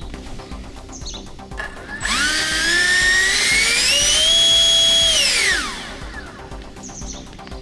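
Electric ducted fan driven by an 1800 kV motor spooling up on a thrust test: a whine rises steeply about two seconds in, holds at full throttle drawing around 80 amps, then winds down quickly a little past halfway. Background music plays underneath.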